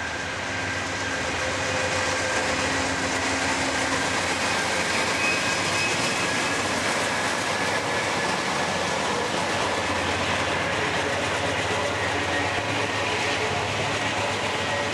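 Norfolk Southern diesel freight locomotives passing close by, then flatcars loaded with highway trailers rolling past: a steady rumble of steel wheels on rail.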